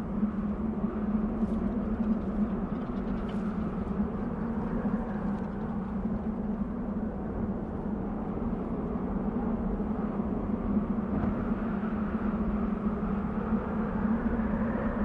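Desert wind blowing steadily, a rushing sound that swells and eases gently, with a low steady drone underneath.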